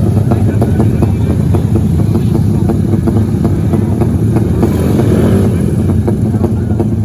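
Trail motorcycle engine running loudly and steadily, with a dense crackle throughout.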